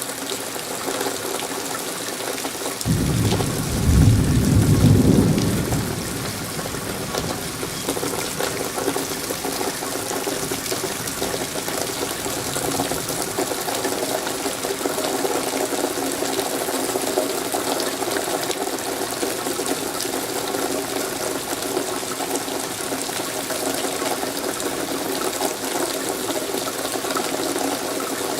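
Steady rain falling. A low rumble swells about three seconds in and dies away a few seconds later.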